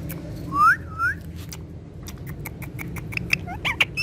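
Pet green parrot giving two short rising whistles, followed by a run of quick sharp clicks.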